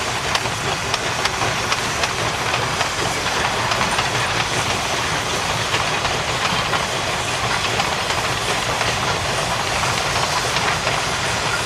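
Narrow-gauge steam train under way on the East Broad Top mainline: a steady rolling rumble with the clickety-clack of wheels over rail joints and sharp clicks at irregular intervals.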